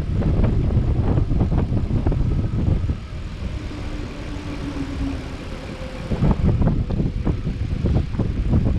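Wind buffeting the microphone with rumbling and knocks from moving along. It eases for a few seconds in the middle, then comes back just as loud.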